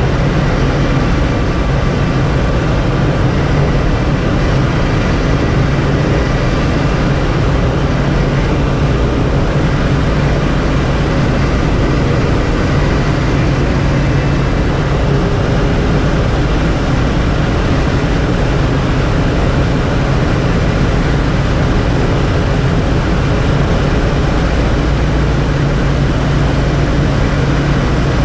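Air Tractor AT-802A single-engine turboprop running steadily in flight: a loud, constant engine and propeller drone with a steady low hum.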